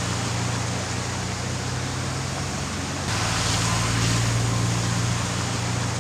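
Steady rushing water noise, heavy rain or floodwater, with a low steady hum under it. The sound shifts abruptly about three seconds in.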